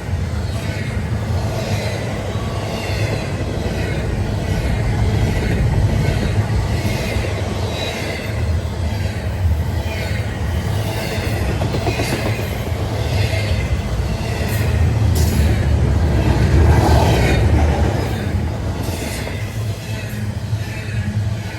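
CSX intermodal container train rolling past: a steady low rumble of steel wheels on rail with a quick run of repeated clacks over the rail joints. It grows louder about three quarters of the way through, then eases.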